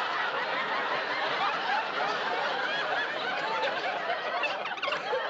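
Studio audience laughing, many voices laughing at once.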